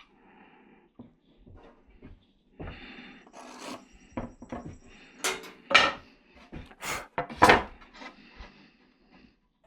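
Cedar boards being slid and lined up by hand: irregular wooden scrapes and rubs, with a few sharper, louder scrapes about halfway through.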